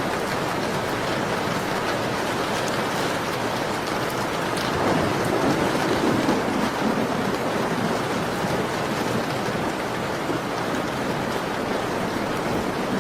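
Steady rain falling, with small crackling ticks from a wood fire. A deeper swell rises and fades from about five to seven seconds in.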